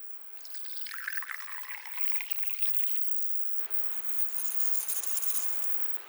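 Hot oil being poured, with crackling, then a steady sizzling hiss as it meets the corn kernels.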